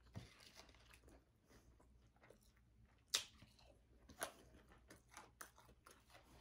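A person chewing fast food close to a microphone: faint wet mouth sounds with a few sharp crisp clicks and crunches, the loudest about three seconds in.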